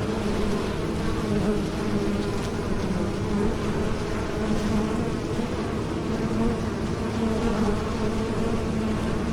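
Bees buzzing in flight: a steady, unbroken drone.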